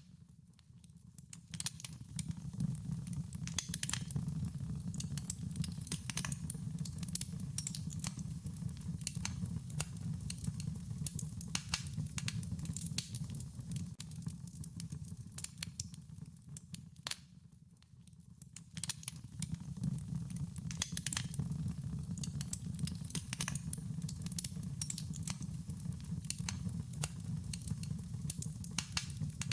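Wood fire crackling: irregular sharp snaps and pops over a steady low rumble. The crackling drops quieter twice, about a second in and again around seventeen seconds in.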